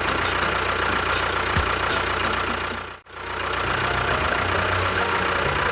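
Engine running steadily. It breaks off for an instant about three seconds in, then starts again with a lower, humming tone.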